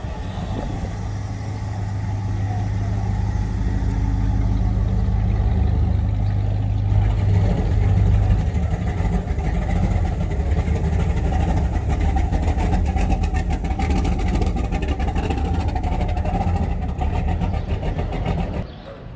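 A car engine running at close range, growing louder over the first few seconds and settling into a rapid, pulsing exhaust note; it stops abruptly near the end.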